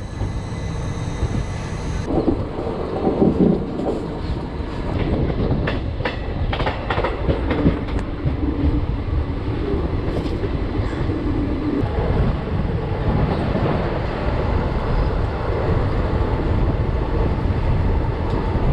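Shramjeevi Express passenger train running steadily, a continuous rumble with the wheels clicking over rail joints.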